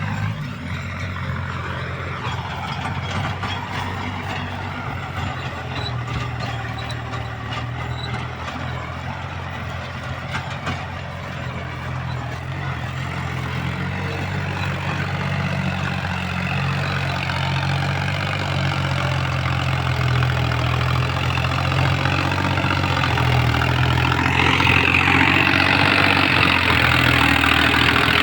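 New Holland 3600-2 tractor's three-cylinder diesel engine running steadily under heavy load, with the churning of the rotavator tilling solid soil about 8 inches deep; the engine holds its speed without bogging down. The sound slowly grows louder and turns harsher near the end.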